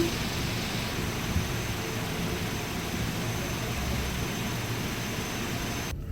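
Steady rushing mechanical noise at an automated car wash, with a short beep at the very start, cutting off abruptly near the end.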